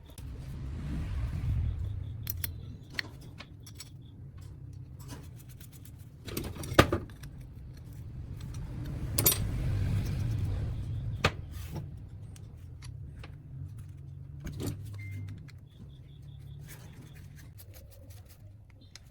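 Clinks and knocks of handled hard parts over a low steady hum, with a few louder knocks near the middle.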